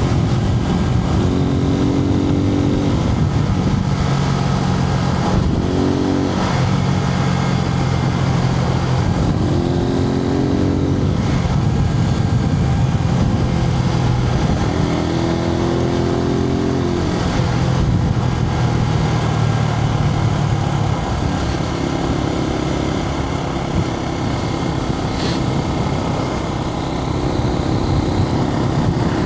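Suzuki TU250X's air-cooled single-cylinder engine running under way, heard from a microphone inside the rider's helmet. The engine note climbs and steps back down several times, as with gear changes, under a steady rush of wind noise.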